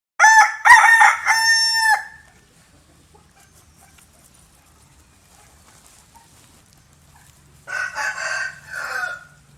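Rooster crowing: a loud cock-a-doodle-doo of a few short notes ending in a long held note. Near the end a quieter burst of three or four more calls follows.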